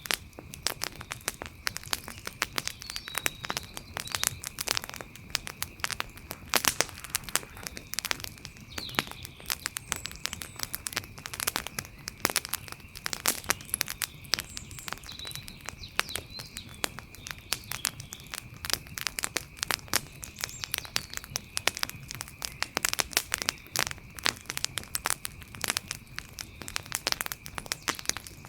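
Wood fire crackling: dense, irregular pops and snaps of burning wood. Underneath there is a steady faint high-pitched tone, and a few faint short chirps come and go.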